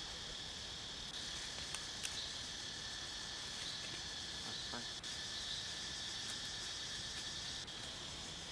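Steady chorus of insects, a continuous high-pitched drone over a background hiss, with a few faint clicks about two seconds in.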